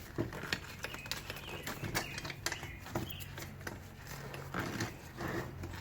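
Irregular small clicks and knocks of a cheap paint spray gun being handled as it is locked down onto its filled paint cup, over a low steady hum.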